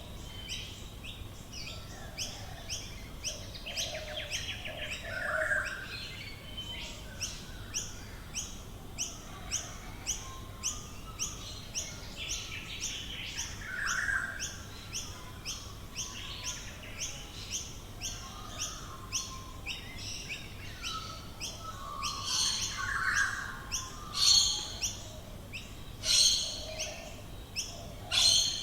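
Australian bush birds calling. A steady series of short, high notes repeats about twice a second throughout, with softer calls beneath it and several louder calls near the end.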